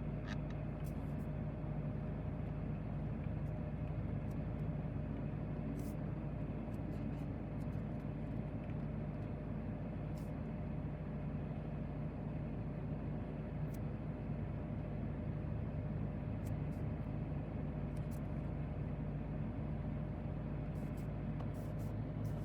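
Steady low hum of the 2024 BMW X2 M35i's 2.0-litre turbocharged four-cylinder idling, heard from inside the cabin, with a few faint soft ticks.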